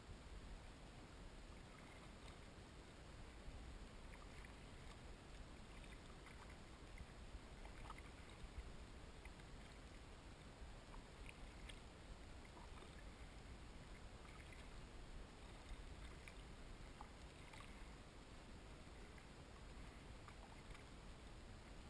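Very quiet kayak paddling: faint scattered drips and small splashes of water from the paddle over a low, steady rumble.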